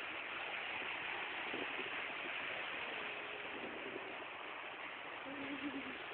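Steady, even rush of floodwater flowing, a continuous hiss, with a faint short hum about five seconds in.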